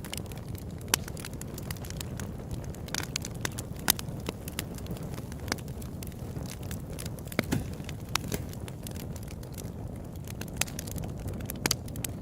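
Open-air wood campfire crackling: irregular sharp pops and snaps, a few louder ones about a second and four seconds in, over a steady low rumble of the burning fire.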